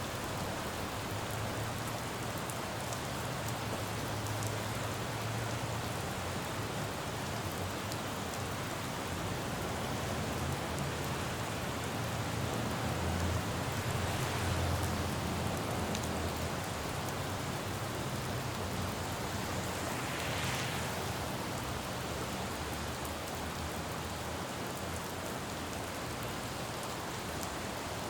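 Steady rain falling on a city road, with a low traffic rumble under it that grows louder around the middle and a brief swelling hiss about twenty seconds in.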